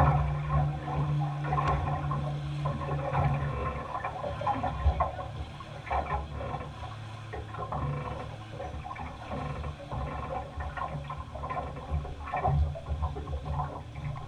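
Race boat engine running on the river, a steady low drone that drops away about three and a half seconds in, over irregular water and handling noise.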